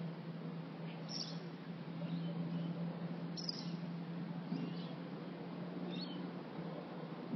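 Small birds chirping: short, high, falling calls about every second, over a steady low hum.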